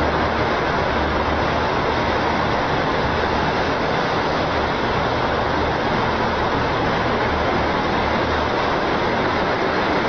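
A loud, steady rumbling roar with a low hum beneath it, unchanging throughout.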